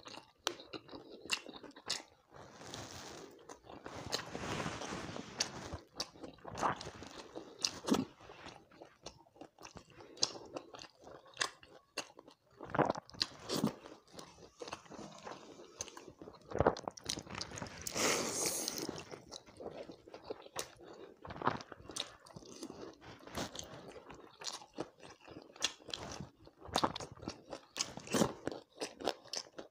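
A person chewing and crunching mouthfuls of fried chicken and water rice (pakhala), with many sharp crunch and mouth-smack clicks at an uneven pace, and two longer hissy stretches, one about four seconds in and one past the middle.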